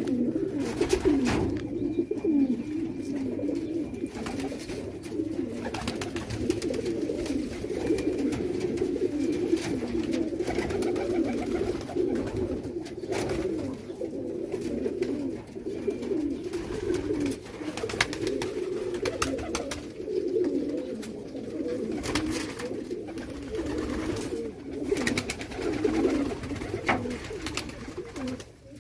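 A flock of domestic pigeons cooing together, a continuous overlapping low cooing, with scattered sharp clicks and taps among it.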